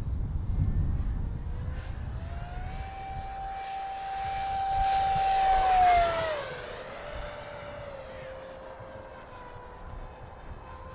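Electric ducted fan of a 70 mm Sky Sword RC jet on 6S power, whining as the model makes a fast pass. The whine rises, holds a steady pitch while growing louder, then drops in pitch as the jet goes by about six seconds in and fades away.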